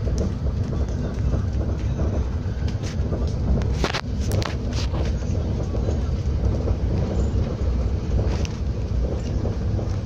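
Regional TER train running at speed, heard from inside the carriage: a steady low rumble of wheels on rail, with a few sharp high clicks about four to five seconds in.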